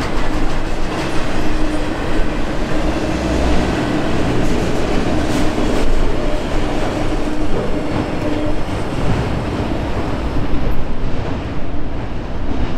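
Autorack freight cars rolling past: steel wheels rumbling on the rail, with clickety-clack from the wheel sets and a steady hum that stops about nine seconds in. The sound thins near the end as the last cars pull away.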